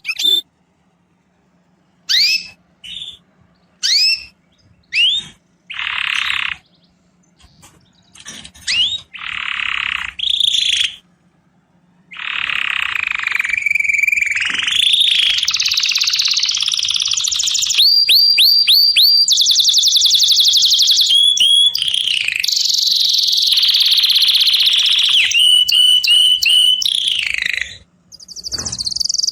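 A songbird singing: separate chirps and sweeping whistles at first, then about twelve seconds in a long, nearly unbroken run of rapid trills, repeated notes and whistles, with a brief break near the end.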